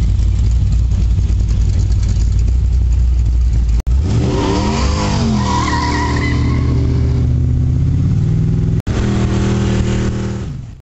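Classic muscle car's engine idling with a deep low note. After an abrupt break about four seconds in, it revs, its pitch rising and falling. After a second break near the end it runs steadily before fading out.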